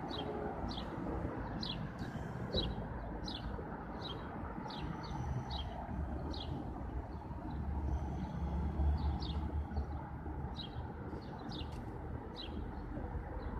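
A small bird chirping over and over, a short high chirp every half second to a second, over a low background rumble that swells about eight seconds in.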